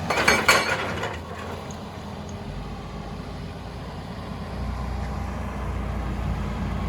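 Hitachi EX200 excavator's diesel engine running, opening with a loud clatter of about a second, like rock and metal knocking. After that the low engine hum settles and grows stronger about halfway through.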